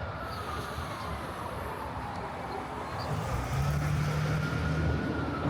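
City street traffic with a distant emergency vehicle siren wailing, slowly falling and rising in pitch. A heavy vehicle's engine rumbles louder for a couple of seconds about three seconds in.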